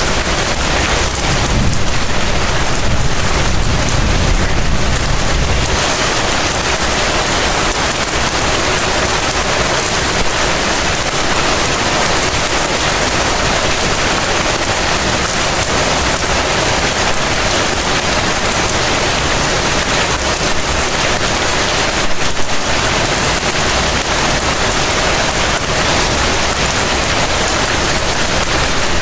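Heavy rain falling steadily in a dense, even hiss, with a low rumble underneath from about two to six seconds in.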